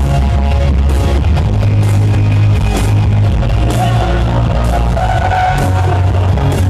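Loud live band music, an instrumental passage of a rock song with heavy, steady bass and drums and no words sung.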